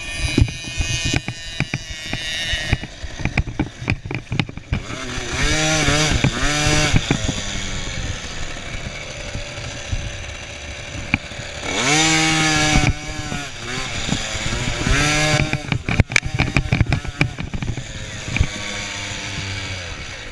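Small two-stroke 50cc motocross bike engines running, with the pitch rising and falling as the throttle is opened and closed several times.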